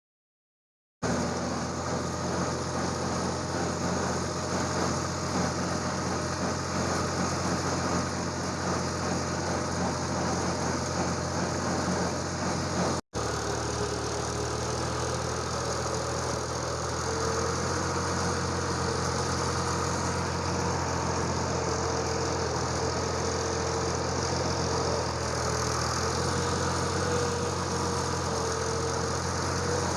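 A motor vehicle engine running steadily with a constant low hum, starting about a second in and briefly cutting out a little before halfway.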